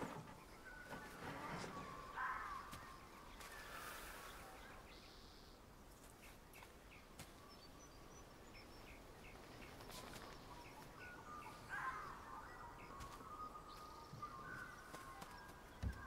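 Birds calling over faint outdoor ambience: short warbling calls about two seconds in and again near twelve seconds, with a run of small ticking calls, two or three a second, in between.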